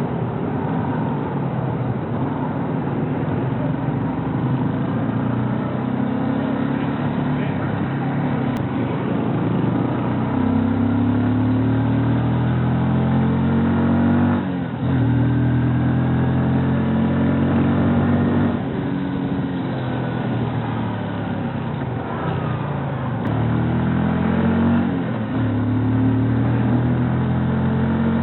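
Rouser NS125 FI single-cylinder motorcycle engine under way: the engine note rises with the throttle and drops sharply at each gear change, several times over.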